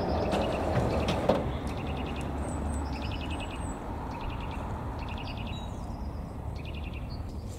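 Small songbirds singing in short, repeated trills and chirps, over a low rumble that fades as the passed train moves away. A single sharp knock about a second in, as the level-crossing barrier arms rise to upright.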